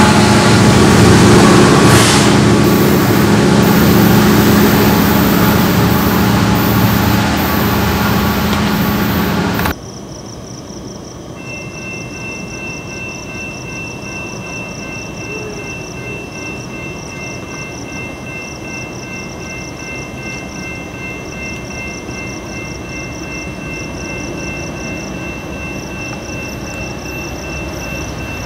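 A train passes close by with a loud, steady rumble and low engine tones. About ten seconds in, the sound cuts off abruptly to a much quieter, steady background with faint high tones.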